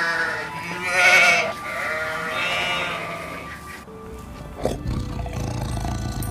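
Sheep bleating: two or three long, wavering bleats in the first three seconds, over background music.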